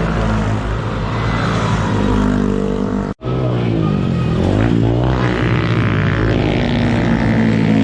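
Motorcycle engine running under way, its pitch shifting up and down as the revs change in the middle. The sound cuts out for a split second about three seconds in.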